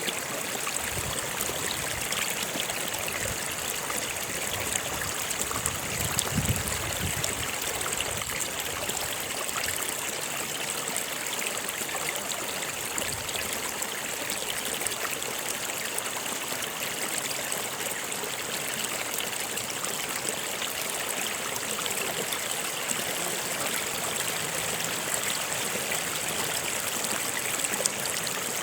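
Stream of water flowing steadily over rocks, a continuous rushing and trickling, with a brief deeper swell about six seconds in.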